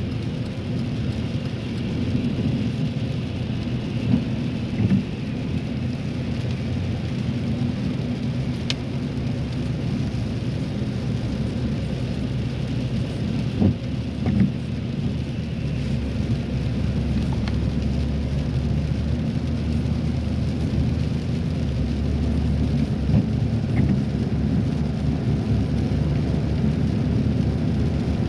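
Car driving on a wet road, heard from inside the cabin: a steady low road rumble with the hiss of tyres and rain, and a few sharp ticks.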